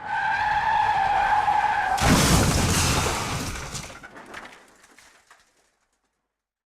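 Car tyres screeching for about two seconds, then a loud crash followed by scattered clattering that dies away: a car skid-and-crash sound effect.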